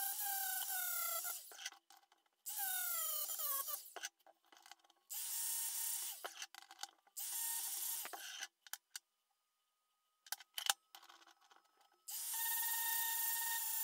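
A small electric power tool, such as a rotary tool or drill with a brush or abrasive wheel, runs in several short bursts against a steel machinist square to scour off rust. Each burst has a steady motor whine under a harsh scrubbing noise. Twice, early on, the whine sags in pitch as the tool is pressed on.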